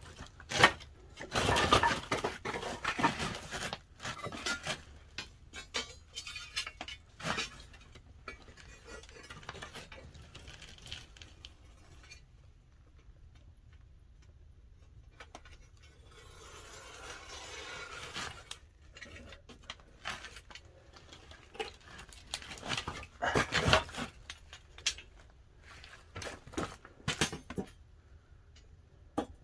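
Pine firewood clattering and knocking as a wood-fired kiln is stoked, with scattered crackling ticks in between. The loudest clatters come in two bunches, a second or two in and again about three-quarters of the way through.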